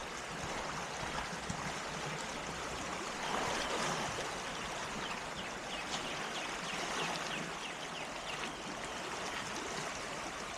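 Floodwater of a rain-swollen river rushing steadily past, a continuous even rush of water.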